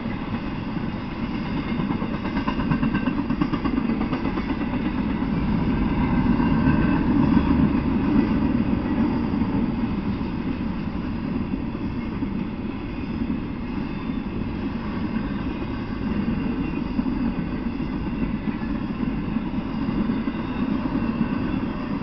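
A freight train rolling past at steady speed: a continuous low rumble of its cars going by, a little louder about a third of the way in.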